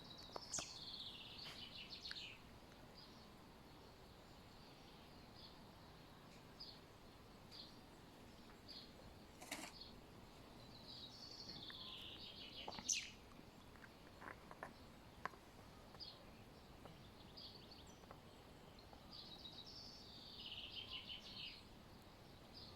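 Faint bird song: a short descending twittering phrase, heard three times about nine seconds apart, with a few faint clicks between.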